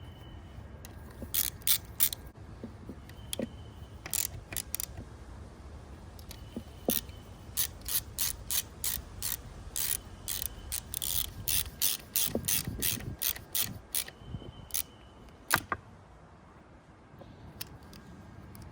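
Socket ratchet wrench clicking in short runs, tightening bolts on a Yamaha four-stroke outboard, most likely the thermostat cover going back on over a reused gasket. The clicks come in bursts through most of the stretch and stop about three seconds before the end.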